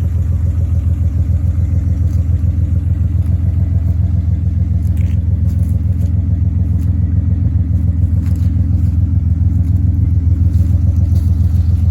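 Old Dodge's engine idling steadily in a low, even rumble while it warms up after a cold start at about 37°F.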